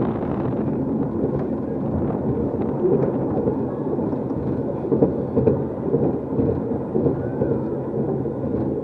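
Amusement ride car rumbling steadily along its track, with scattered clicks and rattles.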